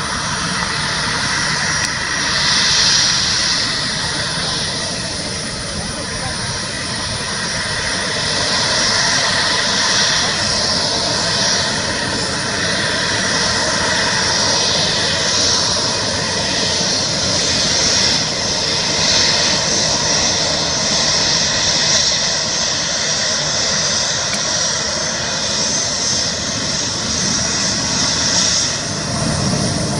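Jet engines of an Air India Express Boeing 737-800 running steadily, a continuous rushing noise with a high whine and no sharp events.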